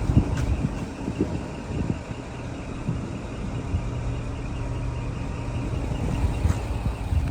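Scania R480 dump truck's diesel engine running steadily, with a few light knocks.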